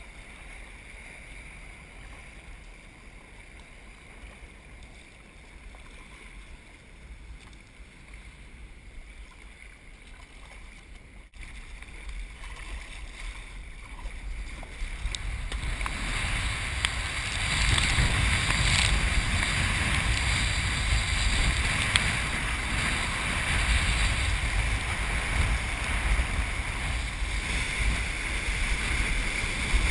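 Wind and surf noise, low at first, then swelling about halfway through into a loud, steady rush of wind and breaking waves.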